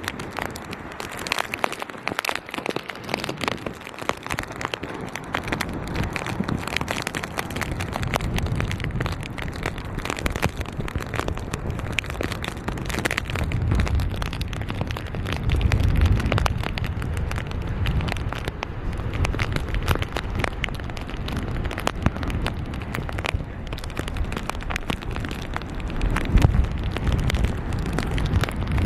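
Storm wind buffeting a camera sealed in a plastic waterproof bag, the bag crackling and rustling without a break. Gusts rumble on the microphone, strongest about halfway through and again near the end.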